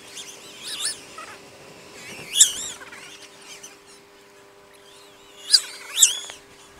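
Birds calling: short, wavering, high-pitched chirps in scattered bursts, the loudest about two and a half seconds in and a pair close together near the end, over a faint steady hum.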